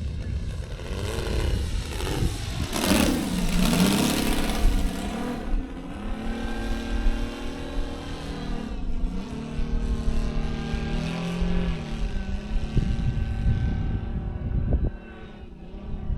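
Saito FG-60R3 gasoline radial engine of a quarter-scale Sopwith Pup RC model running; its pitch drops sharply a few seconds in, then holds fairly steady with small rises and falls in speed, over low wind rumble on the microphone.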